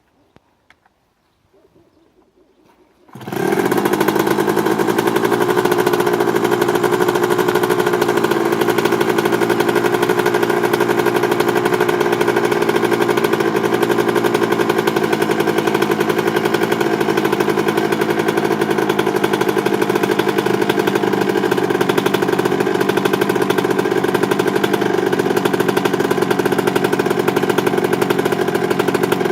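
Suzuki RM125 two-stroke single-cylinder dirt bike engine starting from cold about three seconds in, then running steadily.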